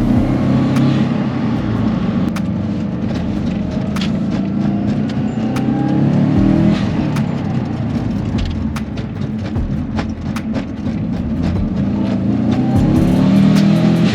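2004 Subaru WRX's turbocharged flat-four engine pulling under acceleration, its pitch rising in several climbs about a second or two long, with scattered sharp clicks over it. The engine runs smoothly with no rod knock; the owner believes it has a small boost leak.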